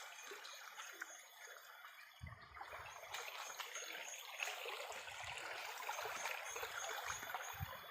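Water running and trickling steadily, as in a small stream, with a few dull low knocks or thumps in the second half.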